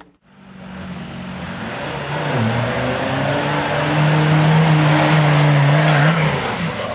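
Off-road 4x4 competition vehicle's engine under load, getting louder over the first few seconds and then holding a steady note, with a brief dip in pitch about two seconds in, over a loud rushing noise.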